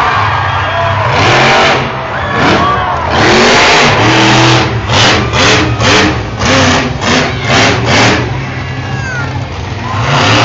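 Monster truck engine revving hard: a few long surges, then quick throttle blips at about three a second, easing off before one more surge near the end.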